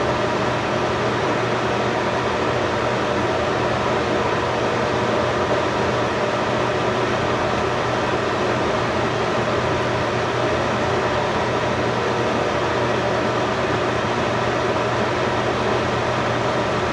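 Steady mechanical whir and hiss with a hum, unchanging throughout.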